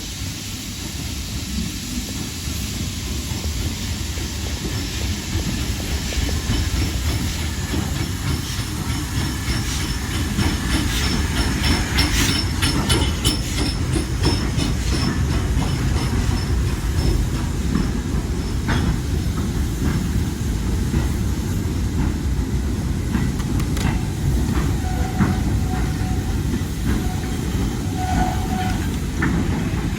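Somerset & Dorset 7F 2-8-0 steam locomotive hauling a freight train of wagons, its rumble growing louder as it approaches, with the wheels clacking over rail joints and a few brief squeals near the end. A steady hiss of heavy rain runs underneath.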